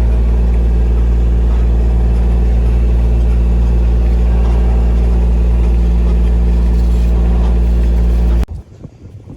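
Farm truck engine running at a steady speed, a low, even drone. It cuts off abruptly near the end, leaving much quieter outdoor sound.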